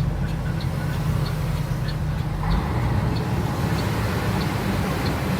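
A motor vehicle's engine running steadily, with a light ticking that repeats about every 0.7 s. A broader rushing noise joins about halfway through.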